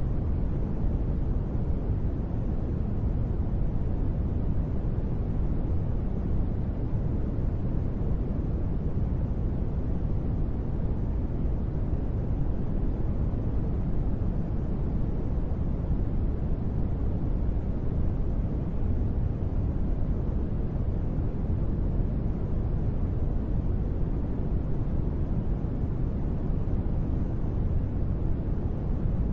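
Steady, unchanging sleep noise: a deep, muffled wash weighted to the low end with little hiss on top, and no separate drops, knocks or changes.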